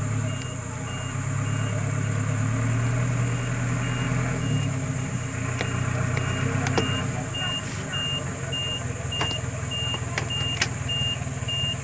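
Vehicle engine running at idle, with a high electronic beep repeating steadily about twice a second like a reversing alarm, and a few sharp clicks.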